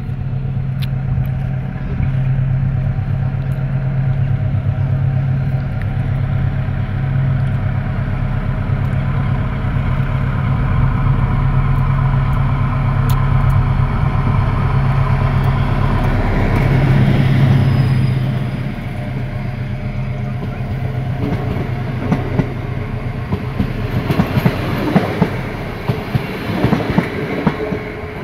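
A diesel locomotive's engine runs at a steady pitch as the train approaches. After about 18 seconds the engine note drops away, and near the end the double-deck passenger coaches rumble past, their wheels clicking over the rail joints.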